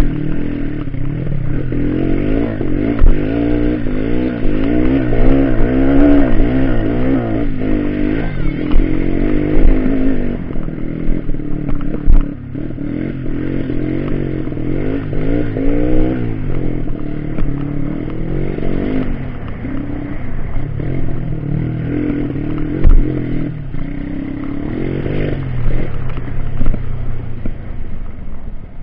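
Off-road trail motorcycle engine revving up and down over and over, its pitch rising and falling every second or so, with a few sharp knocks.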